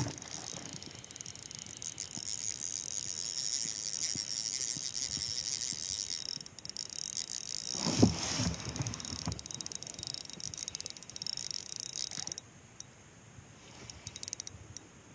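Spinning fishing reel being cranked, a fast high-pitched whirring tick that stops abruptly about 12 seconds in after a brief pause midway, with a dull knock against the kayak about 8 seconds in.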